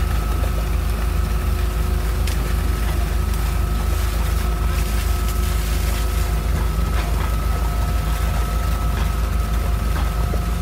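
Concrete pump truck running, a steady low drone with a thin steady whine above it, as it pumps concrete through its boom hose into a foundation trench.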